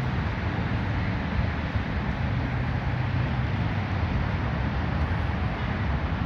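Ford Bronco's 302 V8 engine running steadily, with an even low rumble and no revving.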